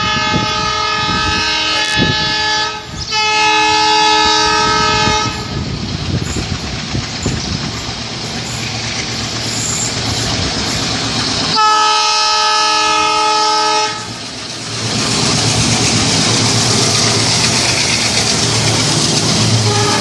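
An Indian Railways double-decker train sounds its horn in three long, chord-like blasts, the second about three seconds in and the third about twelve seconds in. Underneath runs the steady noise of the train on the track, which grows louder over the last few seconds.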